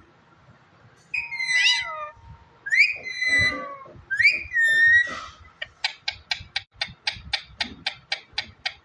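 Pet parrot whistling: a few pitched calls that swoop up and down. These are followed, just under six seconds in, by a quick run of short chirps or clicks, about four or five a second.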